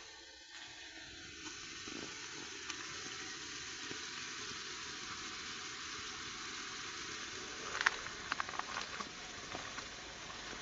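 Steady rain falling, a hiss that builds over the first couple of seconds and then holds, with sharp taps of drops in the last few seconds.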